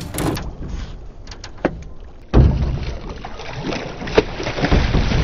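Outdoor sound on a small fishing boat during a fight with a pike: water and wind noise with a few sharp clicks, jumping suddenly louder a little over two seconds in with a heavy low rush.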